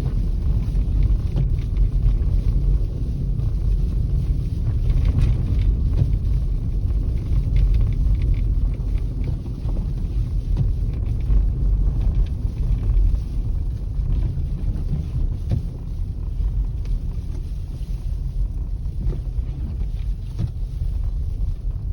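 Wind buffeting the microphone: a steady, gusting low rumble that rises and falls, with a few faint clicks.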